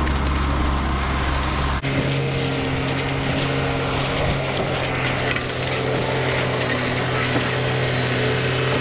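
An engine running steadily at a constant pitch, with a scraping, gritty noise of work over it. The sound changes abruptly about two seconds in.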